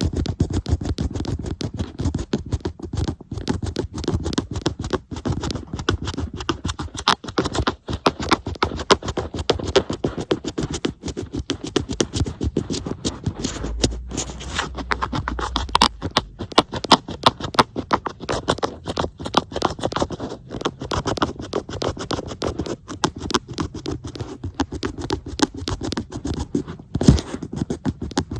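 Fingernails tapping and scratching on an iPad in a fast, continuous run of small clicks and scrapes.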